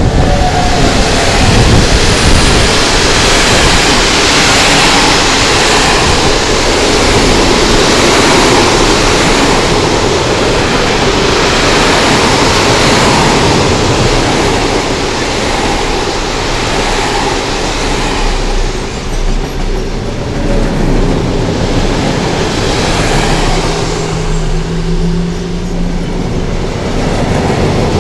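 DB Cargo freight train passing close by: the electric locomotive goes by at the start, then a long string of sliding-wall boxcars rolls past with a steady rumble and rattle of wheels on the rails.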